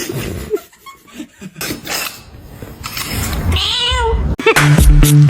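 A cat gives one drawn-out, wavering meow about three seconds in. Music with a steady bass line starts near the end.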